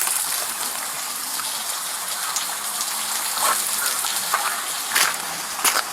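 Steady hiss of heavy rain falling and running water, picked up by a police body camera, with a few sharp taps about three and a half, five and five and a half seconds in.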